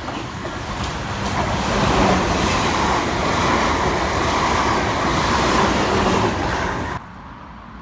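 Train running past, its noise building over the first two seconds and then holding steady, until it cuts off suddenly about seven seconds in.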